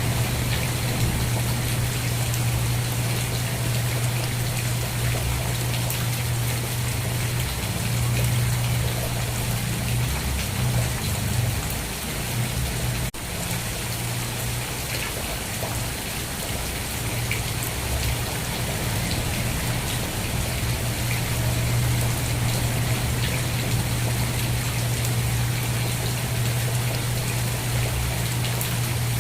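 Steady rain falling, an even hiss of drops, over a continuous low hum. There is a single brief click about 13 seconds in.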